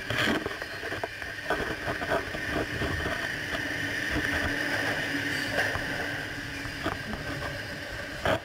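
Sydney Trains double-deck electric train running at speed, heard from outside the carriage: a steady rush of wheel-on-rail noise with a steady high whine, broken by several sharp knocks, one at the start and another near the end.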